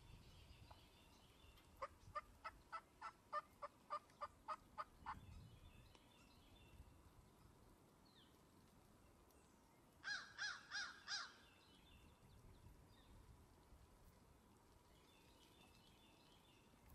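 Wild turkey yelping: a run of about eleven evenly spaced yelps, roughly three a second, then a short burst of four louder yelps about ten seconds in.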